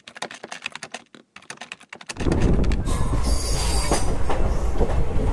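Typewriter-style typing clicks for about two seconds, then the loud running noise of the Gujarat Superfast Express heard from an open coach door: wheels rolling over the rails, with a high wheel squeal for about a second soon after it starts.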